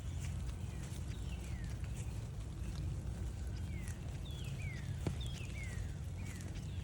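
Wind buffeting the microphone as a steady low rumble over gentle rain, with a bird calling short downward-slurred notes, several a second from about four seconds in, and a few light taps.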